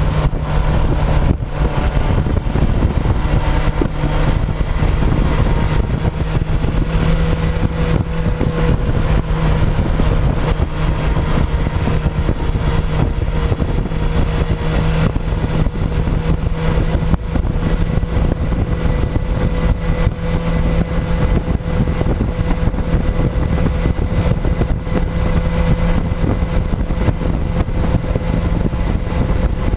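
Motorcycle engine running at fairly steady revs on the move, its note holding nearly level under a constant rush of wind and road noise.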